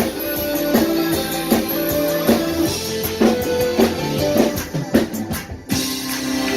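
Live worship band playing an instrumental passage: drum kit keeping a steady beat under guitar chords, with a quick drum fill and a brief break near the end.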